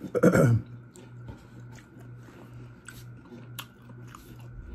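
A person chewing a mouthful of egg roll, with faint scattered wet mouth clicks, after a short voiced "mm" falling in pitch at the start. A steady low hum runs underneath.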